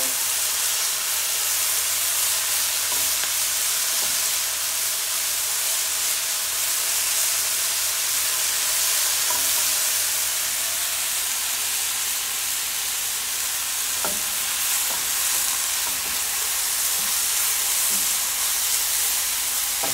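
Sliced mushrooms, red bell pepper and onion sizzling in hot oil in a non-stick skillet, a steady, really loud frying hiss. A spatula scrapes now and then as the vegetables are stirred.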